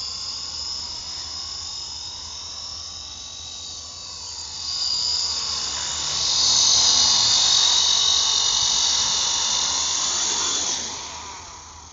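Small electric motor of a radio-controlled toy aircraft whining at high pitch in flight. It grows louder about five seconds in, peaks, then drops away sharply near the end.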